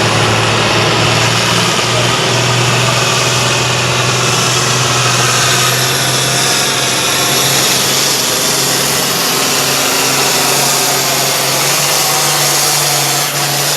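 Competition pulling tractor's engine running hard at high revs under load, its pitch creeping slowly upward as the pull goes on, with dense high noise over the engine note.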